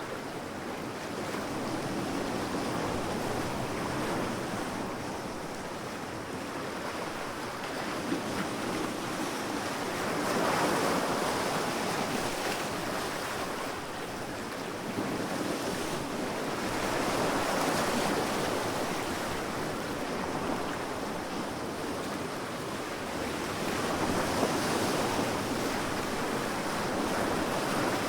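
Sea waves breaking on a sandy beach, each wave swelling and washing in about every six to seven seconds over a steady surf hiss.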